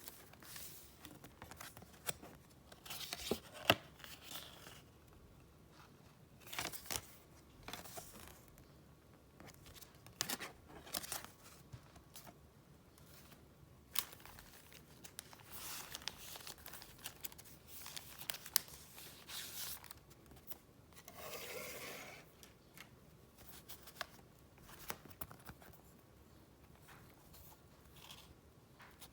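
Paper and wrapping handled at close range: on-and-off rustling and crinkling with sharp clicks and taps, and one longer rustle about two thirds of the way through.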